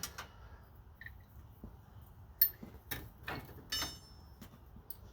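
A few sharp clinks and knocks of metal parts being handled and fitted together, the loudest about halfway through, with a short metallic ring from one near the end.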